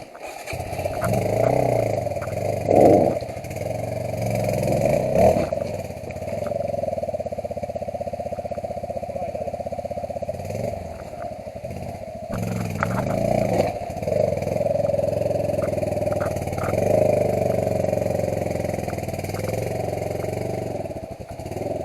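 Off-road motorcycle engine running with repeated revs as the throttle opens and closes, picking its way over rocks, with scattered small clicks and knocks.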